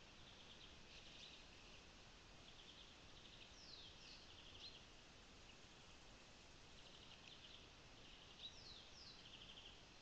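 Faint birdsong over a low steady hiss: repeated short high trills and a few quick downward-sliding notes.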